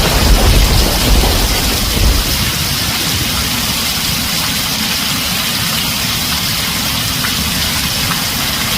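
Heavy rain drumming steadily on a tin roof, with a low thunder rumble dying away in the first two seconds or so.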